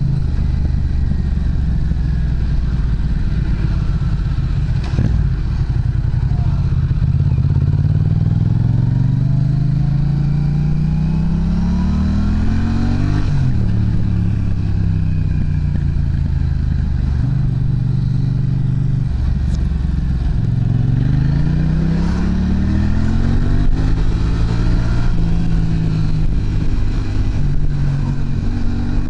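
Yamaha MT-07's parallel-twin engine through an aftermarket muffler, under way. The engine note climbs steadily for several seconds, drops sharply about halfway through and holds. It then climbs again and settles to a steady pitch near the end.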